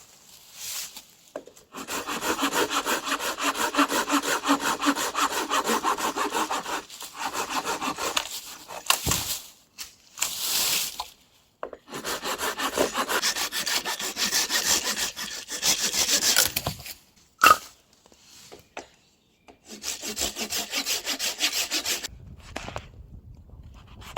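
Hand saw cutting through wood in four bouts of quick back-and-forth strokes, with short pauses between them. There is one sharp click about two-thirds of the way in.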